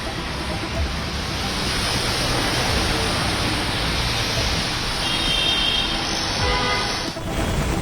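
Heavy rain pouring down in a steady dense hiss, with road traffic beneath. The hiss drops off abruptly about seven seconds in.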